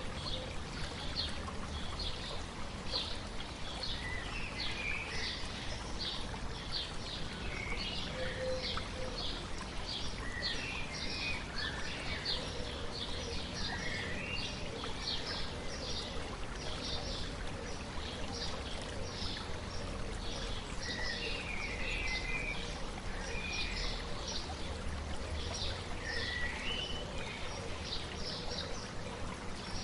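A babbling stream running steadily, with birds singing over it: one repeats a short high call about twice a second while others twitter now and then.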